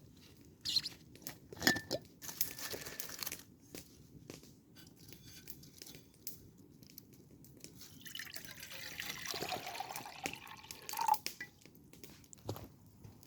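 A few light knocks and clicks, then liquid poured into a cup for about three seconds near the end, the pitch creeping up as the cup fills.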